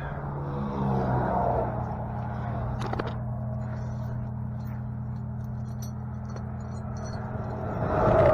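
A steady, low mechanical hum whose pitch shifts about a second in, with a single sharp click near three seconds and a swell of louder noise near the end.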